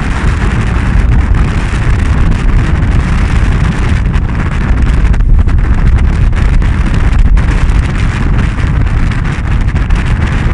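Strong wind buffeting the microphone aboard a sailing yacht under way: a loud, steady rumble and rush with no let-up.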